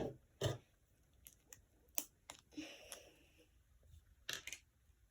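Scattered light clicks and taps, roughly one every half second to second, with a short soft rustle near the middle: small items being handled on a tabletop while making slime.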